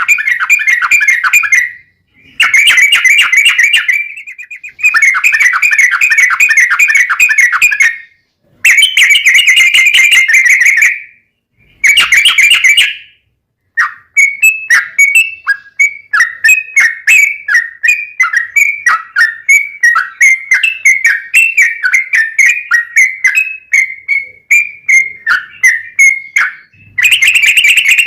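Sooty-headed bulbul (trucuk) singing loudly. It gives several rapid, rolling chatter phrases of about two seconds each, with short pauses between them. From about halfway it changes to a long run of short, quick falling notes, about three a second, and ends with another rapid phrase.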